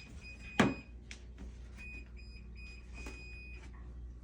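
A single sharp thump about half a second in, over a high, steady electronic-sounding tone that stops and starts several times.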